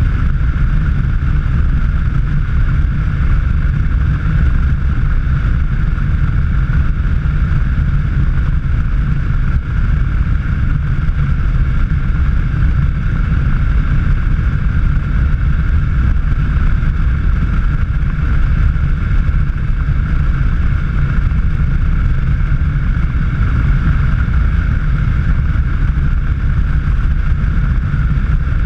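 Vehicle driving at steady speed on a road: a continuous low engine and road rumble with a steady higher hiss, unchanging throughout.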